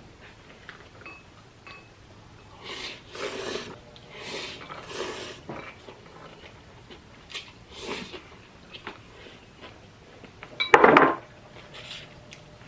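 Utensils clinking and scraping against a ramen bowl or pot during eating, with scattered light clinks and one loud clatter about eleven seconds in.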